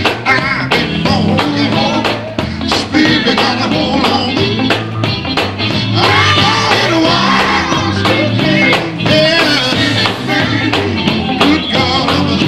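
Live gospel band playing an up-tempo number with a steady drum beat and bass, without lyrics being sung.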